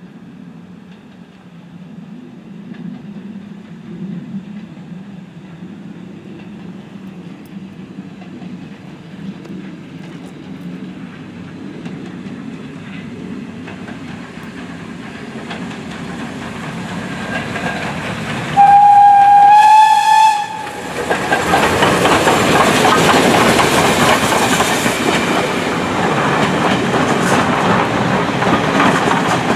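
Steam locomotive and train approaching, growing steadily louder, then one whistle about two seconds long. It then passes close by, loud, with the clickety-clack of wheels over the rail joints.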